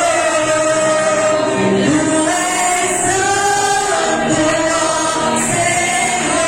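Youth choir singing a gospel hymn in unison, holding long notes that step from one pitch to the next.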